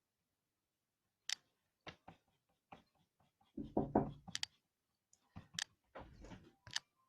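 Irregular light clicks and taps of small objects handled on a desk, with two duller clusters of knocks and rustling, one about three and a half seconds in and one around six seconds.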